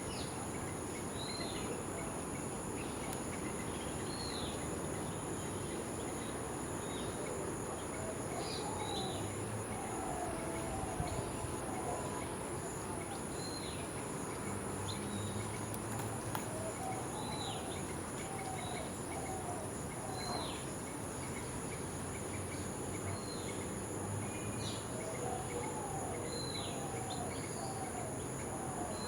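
A steady, high-pitched insect chorus of crickets or cicadas, with a bird repeating a short, high, downward-dropping call about every two seconds. A lower, warbling phrase of several notes comes three times: about a third of the way in, around the middle, and near the end.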